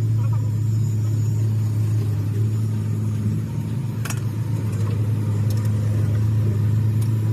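Machinery running steadily at constant speed with a loud, low, even hum and a faint click about four seconds in.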